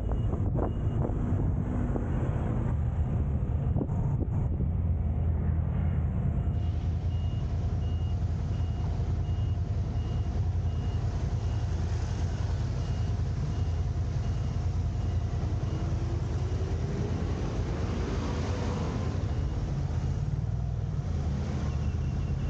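Car driving in city traffic: steady low road and engine rumble. A faint, evenly repeating high beep sounds through much of it, and an engine note rises slowly a little past the middle.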